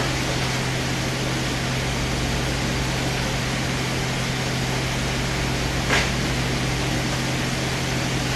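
Steady whooshing fan noise with a low, even hum, like a kitchen ventilation fan or air handler running. A single short clatter about six seconds in.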